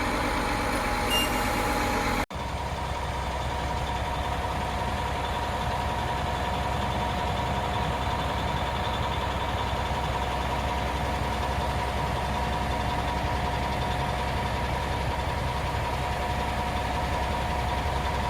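Concrete pump truck and mixer truck running steadily, a low diesel rumble with a steady whine, while concrete is being pumped. The sound drops out briefly about two seconds in, then carries on unchanged.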